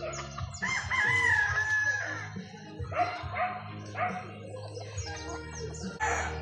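Rooster crowing: one long crow starting about half a second in, followed by shorter calls and some high chirping.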